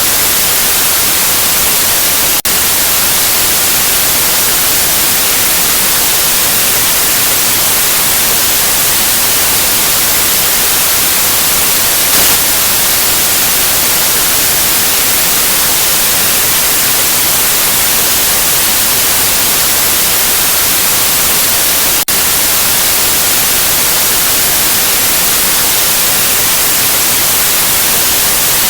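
Loud, steady white noise: an even hiss with no tones, brightest in the high end, broken by two very brief dropouts, one about two and a half seconds in and one about twenty-two seconds in.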